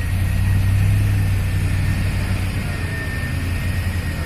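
Heavy truck's diesel engine running steadily with a deep low hum, with a faint high whine above it.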